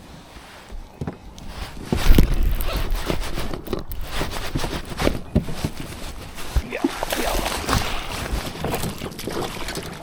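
Water sloshing and splashing around a kayak, with scattered knocks and rustles on the hull and gear, starting suddenly about two seconds in.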